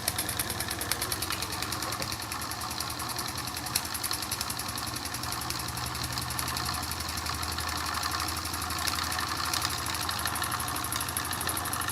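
Late-1920s Bing tinplate toy steam engine with a horizontal boiler running steadily under live steam, a fast, even beat. It is running smoothly.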